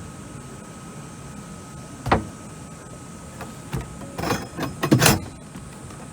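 A small river tour boat's hull knocking against the landing as it comes alongside: one sharp thump about two seconds in, then a cluster of louder knocks and bumps near the end.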